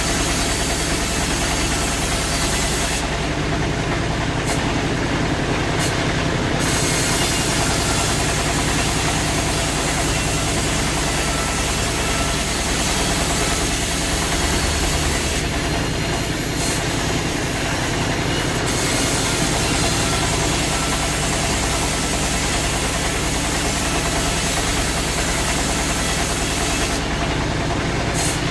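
Sawmill machinery running steadily, a constant low mechanical drone with no letup.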